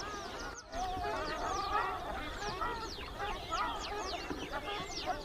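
A dense chorus of many waterfowl calling at once, with many quick falling high notes over wavering chattering calls. The chorus dips briefly about half a second in.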